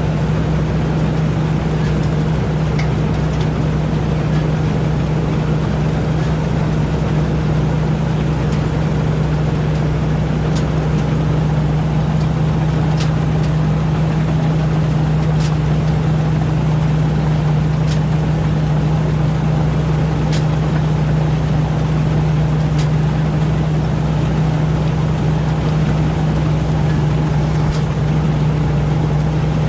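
Rice combine harvester running steadily at work, a constant low engine drone with a strong steady hum and a few faint ticks now and then.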